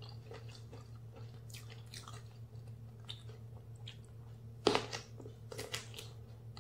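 Close-miked chewing with soft wet mouth clicks, then a loud crunchy bite into a raw round eggplant about two-thirds of the way in, followed by crunching chews. A steady low hum runs underneath.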